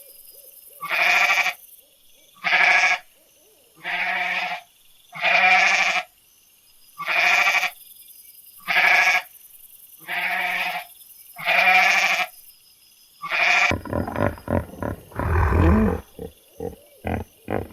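Bleating, about nine alike calls evenly spaced about one and a half seconds apart. Near the end the calls give way to a lower, rougher, choppier animal sound.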